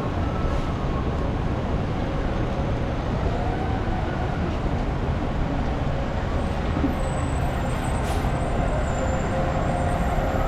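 Steady city street traffic on wet roads: a continuous low rumble of engines and tyre noise, with faint engine whine over it.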